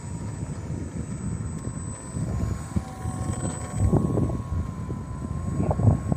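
Radio-controlled model airplane's motor and propeller giving a steady thin drone in flight, almost buried under gusty wind buffeting the microphone.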